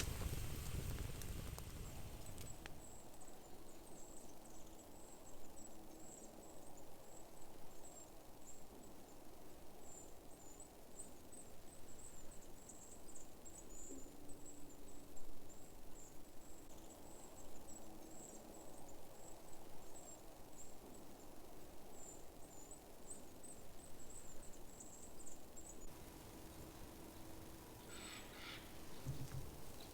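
A small forest bird giving very high, thin chirps over and over, with a faint steady low hum underneath. Near the end, a few harsher, lower calls follow.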